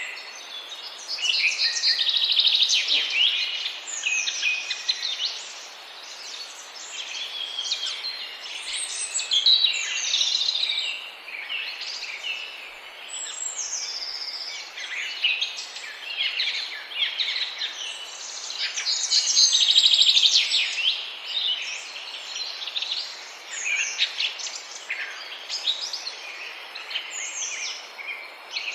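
Many small birds chirping and singing at once, a dense chorus of overlapping high chirps, trills and quick up-and-down whistles over a faint steady hiss, swelling louder around the middle and again near two-thirds of the way through.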